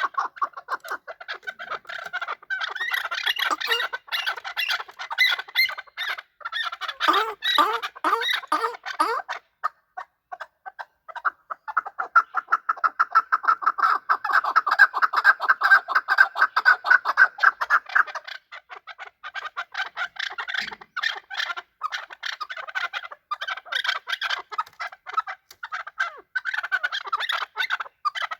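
Chukar partridges calling: long runs of rapid, repeated clucking chuk notes, with a short lull about ten seconds in and a dense unbroken run from about twelve to eighteen seconds.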